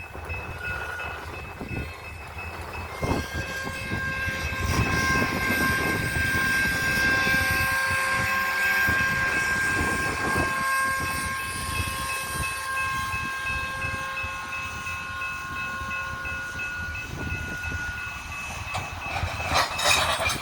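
Freight train rolling on the rails, with wheels knocking over rail joints and a long, steady high-pitched tone held over it for most of the time before it fades near the end.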